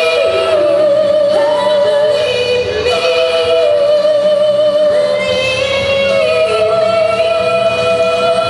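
A singer holding long, drawn-out notes with vibrato over backing music, changing pitch every second or two.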